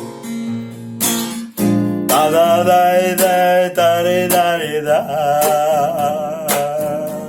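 Acoustic guitar strummed as accompaniment to a Gypsy song. From about two seconds in, a held melody line with vibrato and no words sounds over the strumming.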